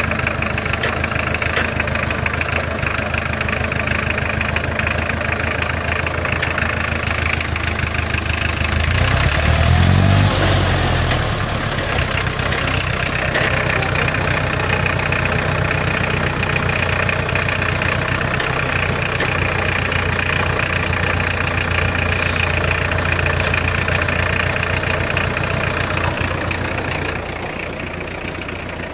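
An old International Harvester Farmall tractor's diesel engine runs steadily at low speed, heard from the driver's seat. About nine seconds in it revs up briefly and settles back, and near the end its level drops a little.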